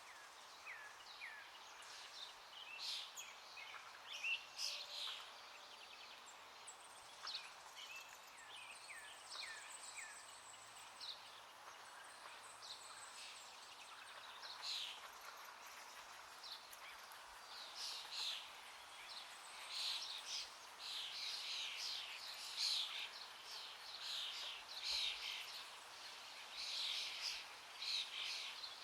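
Small birds chirping and calling in quick short notes, busier in the second half, over a steady faint rush of running river water.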